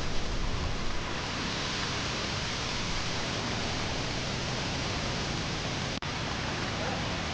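Waterfall rushing: a steady, even wash of falling water, cutting out for an instant about six seconds in.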